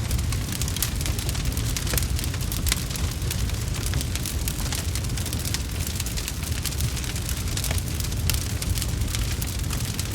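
Wood fire crackling steadily, with dense irregular pops and snaps over a constant low rumble.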